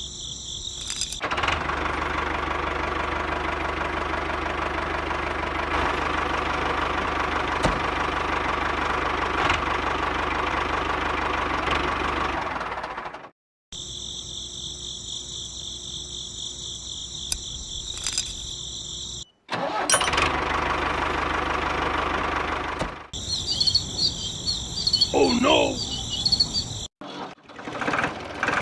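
A motor running steadily, cut off abruptly by edits, with a high steady buzz in the clips between.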